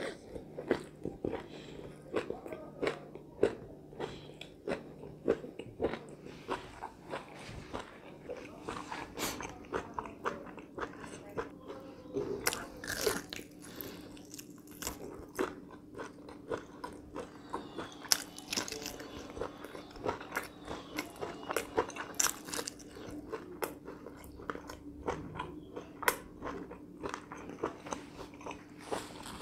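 Close-miked chewing and biting of crispy pan-fried chicken tails wrapped in lettuce leaves, with frequent irregular crunches. A faint steady hum runs underneath.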